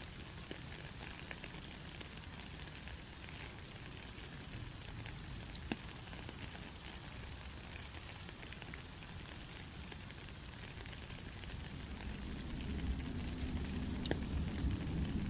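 Steady white-noise hiss, like sizzling or light rain, with a few faint clicks scattered through it. A low rumble swells in about three-quarters of the way through.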